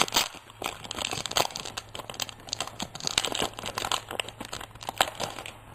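Foil trading-card booster pack wrapper crinkling and tearing as it is opened by hand, a dense run of irregular crackles that stops near the end.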